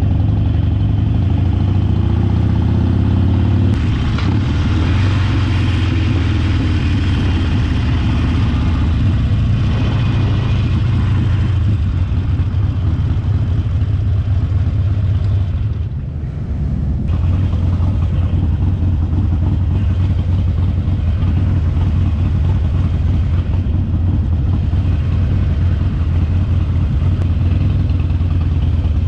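Motorcycle engine running under way, a strong steady low engine note, with a brief drop in level about halfway through.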